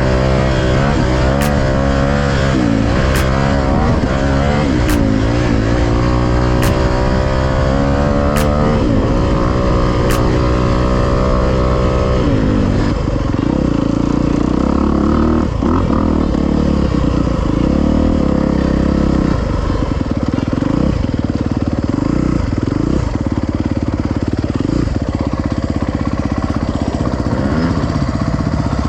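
Four-stroke single-cylinder engine of a Honda CRF250 dirt bike under riding load. It revs up and down repeatedly through the first twelve seconds or so, then holds a steadier, lower pitch for the rest.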